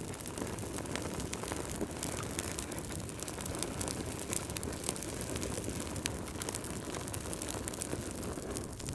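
Wood fire crackling in a fireplace: a steady low rumble of burning with frequent small pops and snaps scattered throughout.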